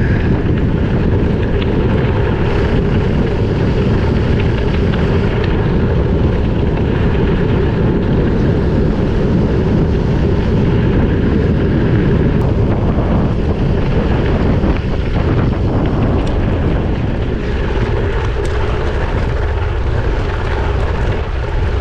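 Steady, loud wind rushing and buffeting over an action camera's microphone while riding a gravel bike, with a deep rumble that eases slightly about two-thirds of the way through.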